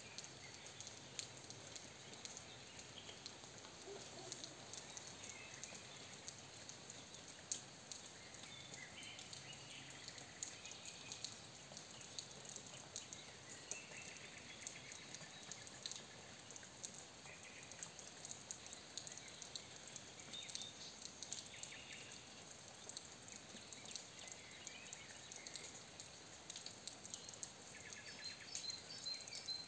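Faint rain pattering and dripping, with small birds chirping here and there and a quick run of trilled notes near the end.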